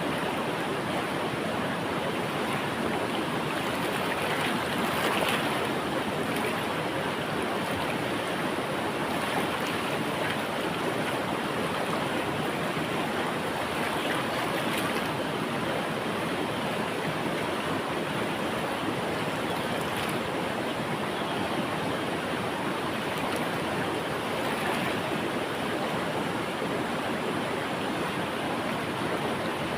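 Flowing river water rushing steadily, an even wash of noise.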